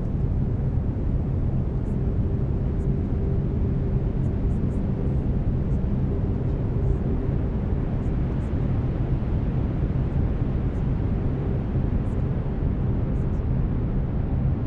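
Steady brown noise, a deep even hiss strongest in the low end, with a faint steady tone under it that fades out about halfway through.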